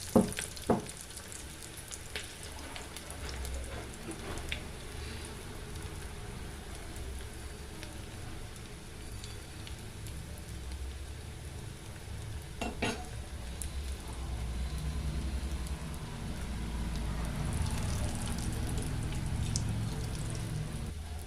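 Paneer cheese balls deep-frying in hot oil, a steady sizzle that grows a little louder in the second half. Sharp utensil clicks come twice right at the start and once about halfway.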